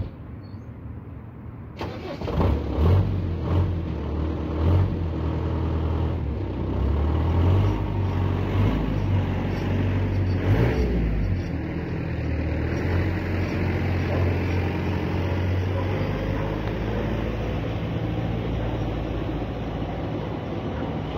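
Electric rack-railway train of the Schynige Platte line running slowly over the level crossing. A steady low motor hum sets in about two seconds in, with knocks and rumble from the wheels and coaches, loudest in the first few seconds.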